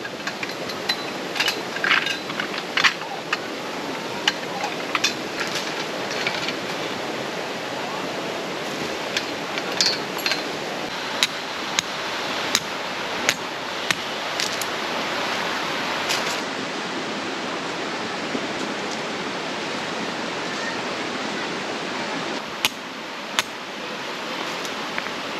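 A mountain creek rushing steadily, with sharp clicks and clinks of objects being handled scattered irregularly over it for the first two-thirds, then two more near the end.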